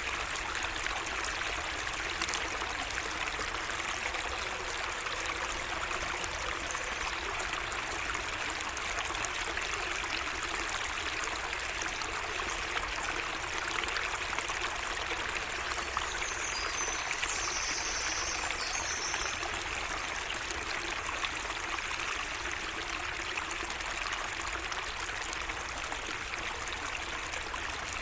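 Small garden stream flowing and trickling steadily. A bird gives a brief high call a little past halfway.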